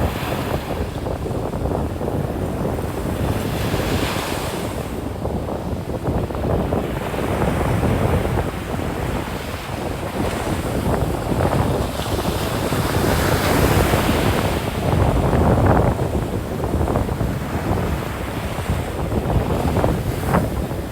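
Atlantic surf breaking and washing up a sand beach, swelling and ebbing over several seconds, with wind buffeting the microphone.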